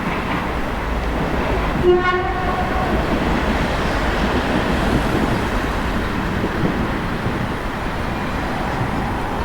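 Steady street and traffic rumble, with a single short vehicle horn toot about two seconds in.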